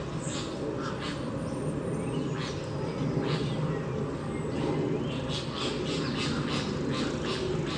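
Captive birds calling: many short squawks and chirps, coming thicker and faster in the second half, over steady low background noise.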